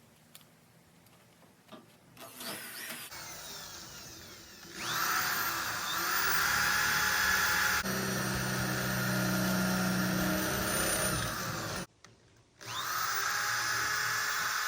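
Power drill drilling holes, spinning up and running steadily under load, stopping briefly about twelve seconds in, then spinning up again for the next stretch.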